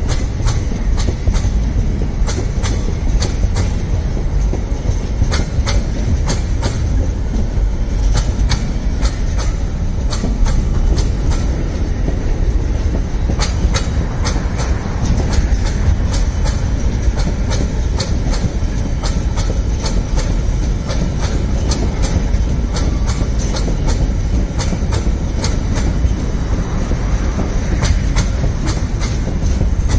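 Freight train of open steel wagons rolling past close at track level: a steady heavy rumble with a constant clickety-clack of the steel wheels and bogies on the rails.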